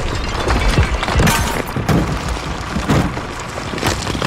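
A series of about five heavy crashes and thuds over four seconds, with a rattling, breaking quality between them.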